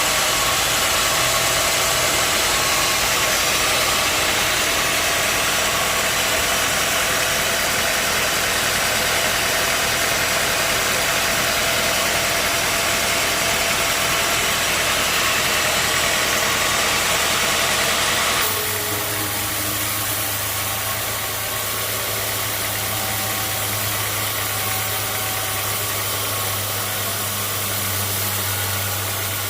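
Sawmill machinery running steadily, engine and saw, with a loud hiss over it. About two-thirds of the way through the hiss drops away abruptly, leaving a lower, steady hum.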